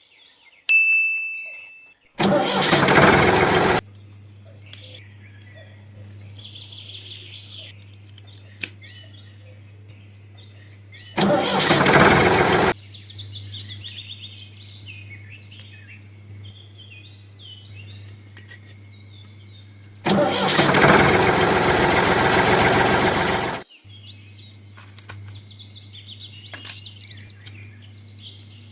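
A tractor engine running with a steady low hum, broken three times by loud noisy bursts lasting one to three seconds each, with birds chirping.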